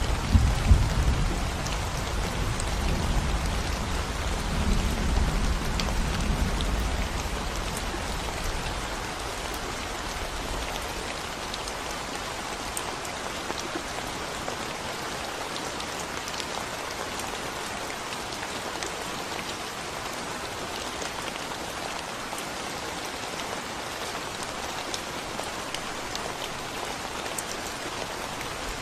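Steady rain falling on a concrete road, a dense even patter of drops. A low rumble of thunder dies away over the first several seconds.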